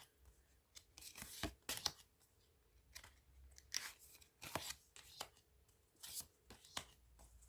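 Tarot cards being handled: a scatter of faint, short papery slides and taps as cards are drawn from the deck and laid down one after another.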